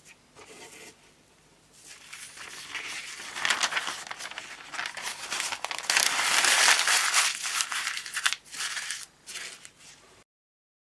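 Crinkling, rustling handling noise with many small crackles, growing louder to a peak about six to seven seconds in, then stopping abruptly near the end.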